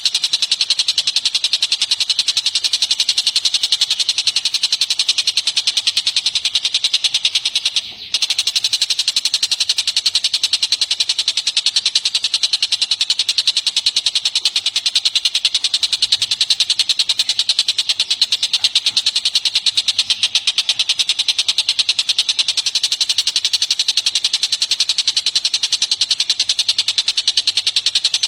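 Songbird chattering in a fast, unbroken run of repeated high-pitched notes, breaking off briefly about eight seconds in.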